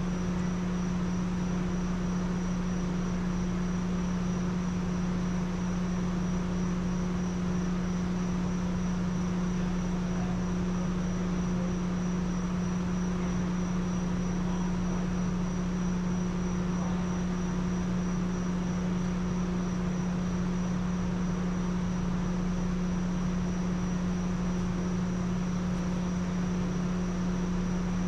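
A steady low hum holding one pitch, with a fainter higher tone and an even hiss underneath, unchanging throughout.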